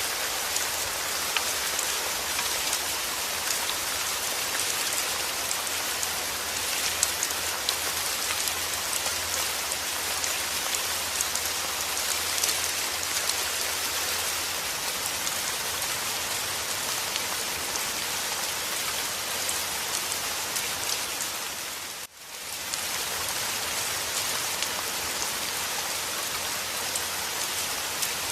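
Steady rain falling, a dense even patter of drops. About 22 seconds in, it dips sharply for a moment and then comes back.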